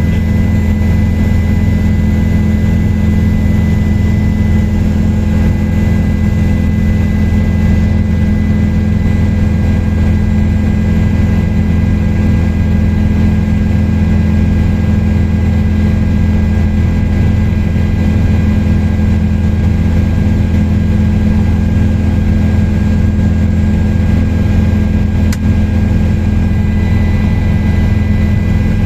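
Helicopter in flight, heard from on board: a loud, steady drone of rotor and engine with a constant high-pitched turbine whine.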